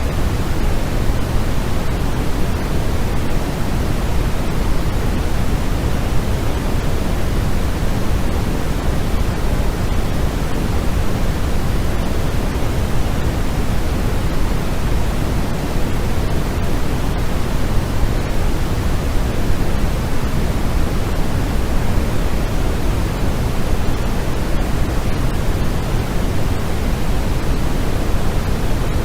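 Steady white-noise track for sleep: an even, unchanging hiss with more weight in the low end than the highs.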